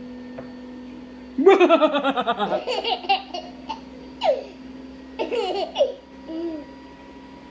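Baby laughing in bursts of quick, breathy pulses, starting about a second and a half in. It begins with a long run of laughter, then comes in shorter bursts with pauses between them.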